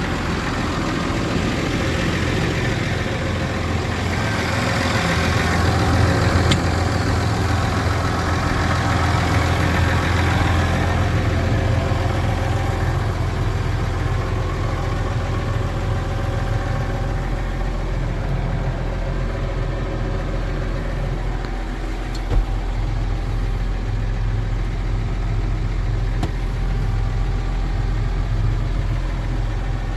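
Case IH Puma 200 CVX tractor's six-cylinder diesel engine idling steadily, with a single sharp click about three-quarters of the way through.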